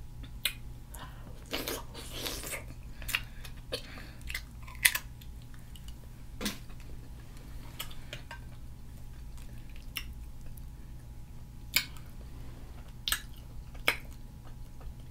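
Close-miked chewing and wet mouth sounds of a person eating a seafood boil of shrimp, mussels, corn and potatoes, with scattered sharp clicks.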